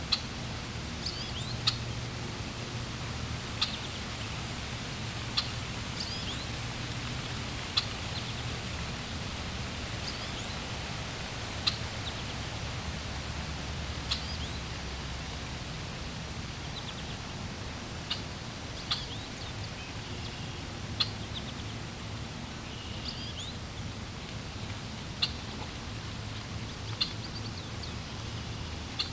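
Water flowing steadily, with short, sharp bird chirps coming every second or two over it.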